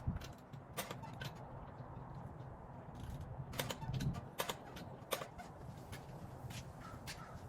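Torque wrench tightening a car wheel's lug nuts to 70 lb-ft, about a dozen sharp, irregularly spaced clicks and knocks over a low steady rumble.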